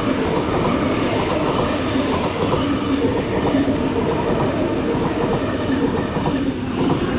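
Sydney Trains T set (Tangara) electric multiple unit running through the station: steady rumble of wheels on rails with a faint hum, easing briefly near the end.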